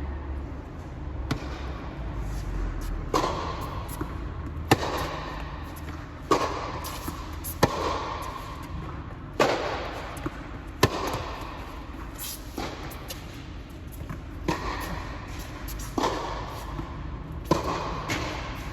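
A tennis rally: a ball struck back and forth by racquets and bouncing on the court, a sharp pop about every second and a half.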